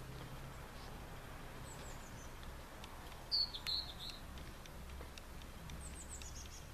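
Small birds chirping outdoors: a few brief high calls in scattered groups, the loudest about three and a half seconds in, over a faint, steady low hum.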